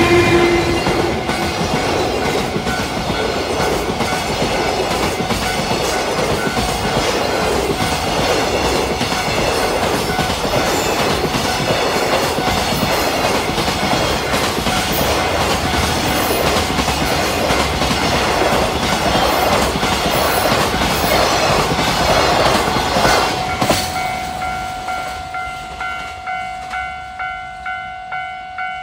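Long container freight train behind an EF510 electric locomotive rolling past at speed, its wagon wheels clacking steadily over the rail joints, with a level crossing alarm ringing underneath. About 23 seconds in the last wagon clears and the train noise falls away, leaving the crossing alarm dinging about twice a second.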